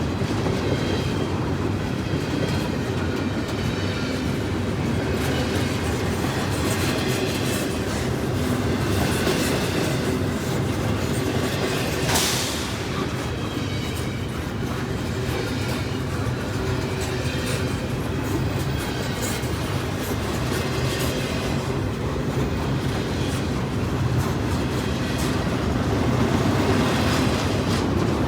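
Freight train cars rolling past, with a steady rumble and the clicking of wheels over rail joints; one sharper bang about twelve seconds in.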